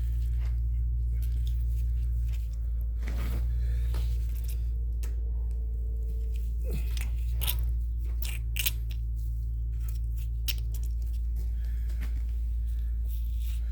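Scattered clicks and scrapes as a brake caliper slide pin is pushed and worked into its bore through the rubber boot on a Subaru Impreza rear caliper bracket, with a steady low hum underneath.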